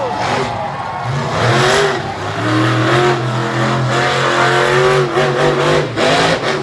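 Monster truck engine revving hard, its pitch rising and falling again and again as the throttle is worked.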